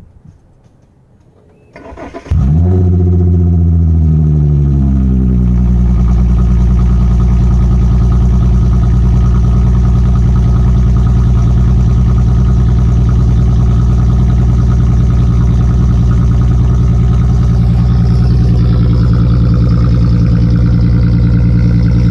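Volkswagen Passat's 3.6-litre VR6 engine, with its mufflers and resonators removed, starting about two seconds in, flaring up and settling within a few seconds into a loud, steady idle.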